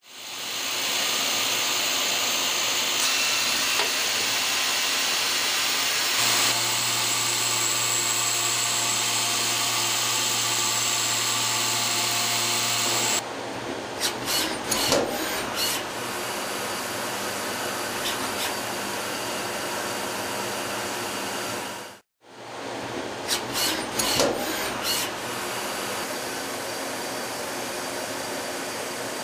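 Citizen M32VIII Swiss-type CNC lathe running and machining, a steady hissing machine noise. The sound changes abruptly about halfway through and drops out briefly later, and each time a cluster of sharp clicks and knocks follows.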